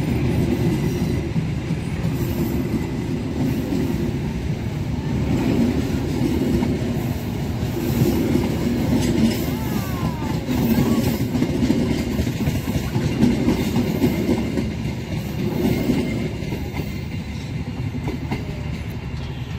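Passenger train coaches rolling past at close range, their wheels clattering over the rail joints in regular surges every couple of seconds. The sound grows fainter near the end as the last coach goes by.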